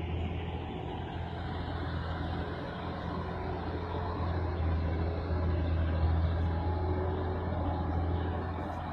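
Bedford truck engine running steadily with a low drone, swelling a little louder around six seconds in.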